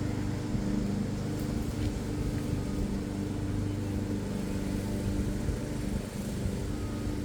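Steady low mechanical hum of a running machine, with a constant low tone underneath and no break.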